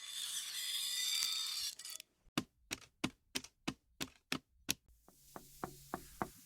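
A brief hiss, then a run of sharp taps or clicks, about three a second, followed by a few softer taps over a low hum.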